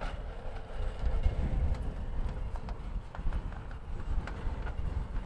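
Footsteps on dirt, an uneven patter of steps a few per second, over a heavy low rumble of wind on the microphone.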